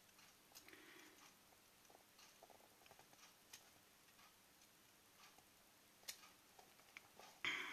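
Near silence with faint, scattered clicks and light handling noise from the small parts of a vape tank being worked on by hand, and a brief louder scrape near the end.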